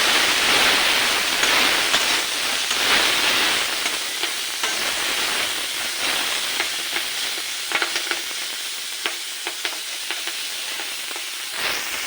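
Chow mein sizzling as it is stir-fried in a pan, a steady hiss that eases a little after the first few seconds, with a spatula clicking and scraping against the pan.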